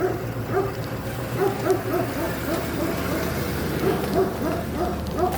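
A dog barking over and over in quick, short, even barks, about three a second, over a low steady hum.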